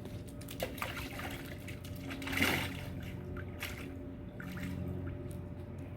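Water trickling and splashing, swelling briefly about two and a half seconds in, over a steady low hum.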